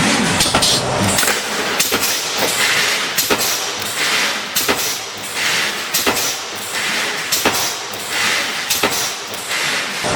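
Automatic column mesh resistance welding machine running: sharp clunks about once a second, with bursts of hissing between them.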